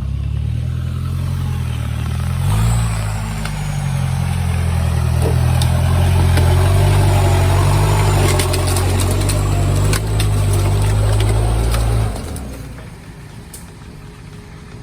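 Vehicle engine working hard off-road, with a steady low drone that rises briefly about two seconds in. There are scattered knocks and rattles, and the engine drops back sharply near the end.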